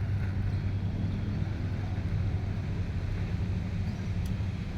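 Steady low engine drone of a running motor vehicle, even throughout.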